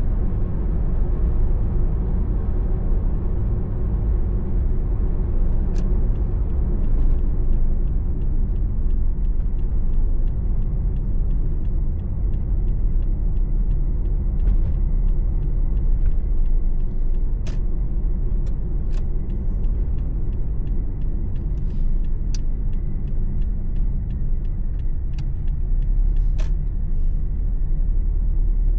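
Steady engine rumble and tyre road noise inside a moving car's cabin. A faint regular ticking runs through most of the middle, with a few sharper clicks.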